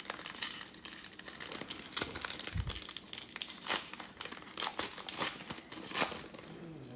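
A foil trading-card pack being torn open, its wrapper crinkling in irregular crackly rustles, with a brief low thump about two and a half seconds in.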